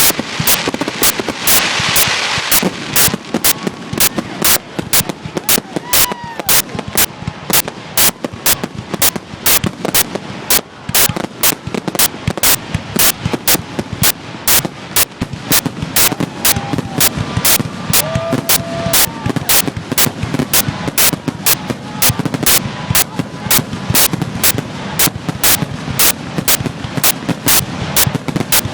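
Fireworks display in a rapid barrage: sharp bangs of bursting shells following each other at about three a second, without a break.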